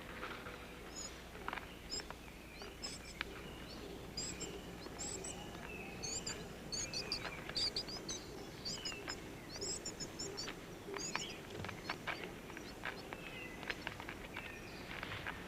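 Rainforest ambience: many small birds chirping, in short high calls that come thickest in the middle, over a faint steady hiss, with scattered light clicks.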